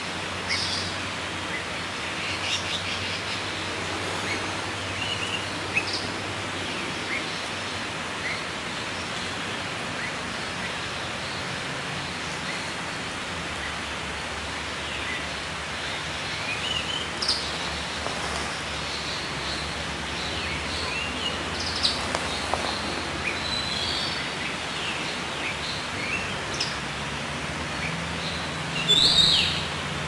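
Scattered short bird chirps and calls, some rising in pitch, over a steady outdoor hiss, with a louder burst of calls near the end.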